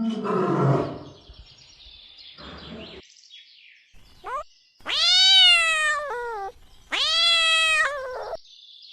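Domestic cat meowing: a short rising call, then two long drawn-out meows, each dropping in pitch at the end.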